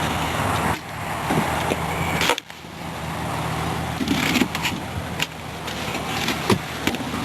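A car engine idling steadily, with a few sharp clicks and knocks over it. The sound dips suddenly twice in the first few seconds.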